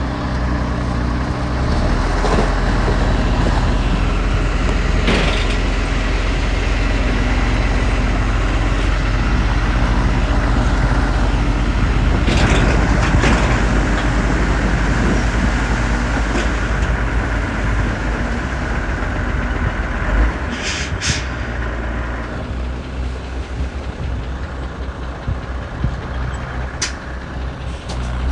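Heavy diesel engines of a small bulldozer and a dump truck running steadily under load. Several short, sharp hisses cut in, one about midway and two close together about three-quarters through.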